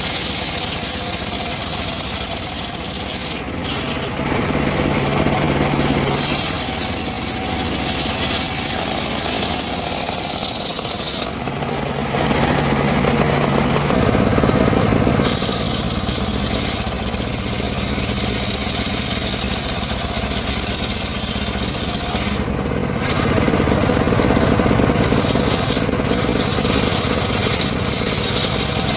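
Engine-driven saw running loudly and cutting timber, its sound shifting several times as the load changes.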